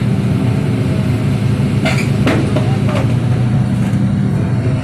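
Excavator's diesel engine running steadily under load, with a few sharp metallic clanks about two and three seconds in.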